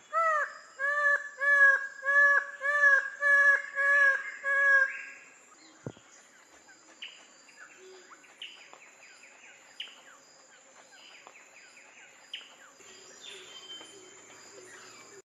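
A bird calling: a run of about eight loud, identical arched notes, roughly one every 0.6 seconds, for the first five seconds, then only faint, scattered short chirps.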